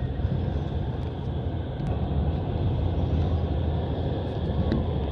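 Passenger train running along the track, heard from inside the carriage: a steady rumble of the wheels on the rails, with a couple of faint ticks near the end.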